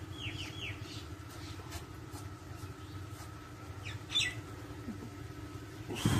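Birds chirping over a steady low mechanical hum: a quick run of short falling chirps near the start and a louder call about four seconds in.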